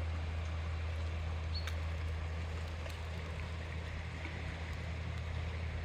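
Steady low drone under an even outdoor hiss, with a brief high chirp about a second and a half in.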